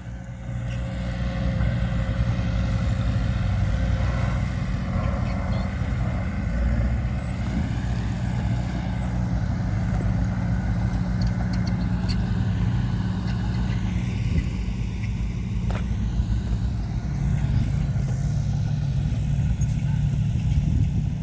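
Diesel engine of heavy earthmoving machinery running steadily under load, with a few faint clicks and clanks.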